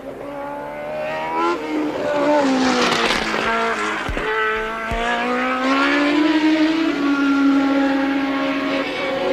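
1983 Formula One car engines at racing speed, their pitch sliding down and climbing again several times as the cars shift gear and pass, with two short low thumps about four and five seconds in.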